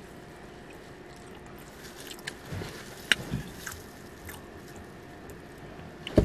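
Quiet chewing and mouth sounds of someone eating a sandwich, with a few soft wet clicks and smacks between about two and four seconds in and a sharper click near the end.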